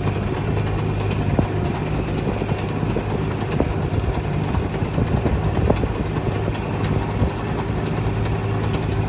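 An engine idling steadily with an even, low hum and a few light clicks and rattles.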